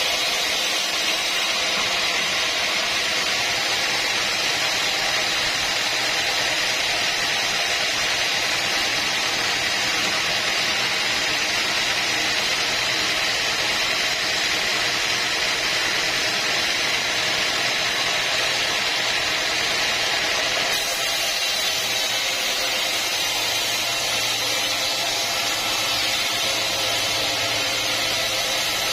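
Sawmill machinery running steadily, a continuous mechanical hiss and drone with no strokes or pauses; its tone shifts abruptly about twenty seconds in.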